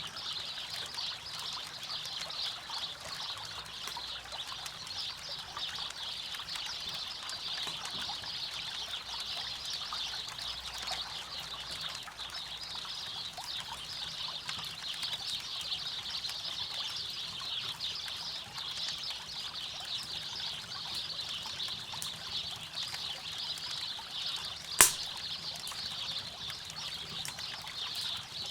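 River water running steadily, with a campfire crackling lightly over it and one sharp, loud pop near the end.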